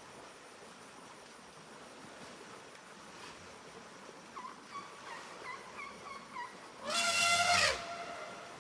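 An Asian elephant trumpets once, loudly, for about a second, the call dropping in pitch as it ends. Shortly before it comes a string of about seven short, high chirping calls.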